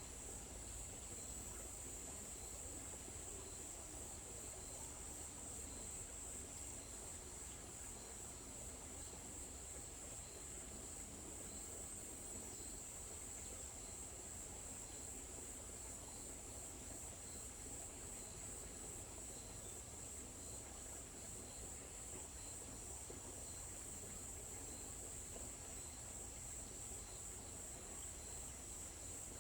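Forest insects, crickets among them, trilling in a steady high-pitched drone, with a fainter chirp repeating about every two-thirds of a second. A low, even background rumble lies beneath.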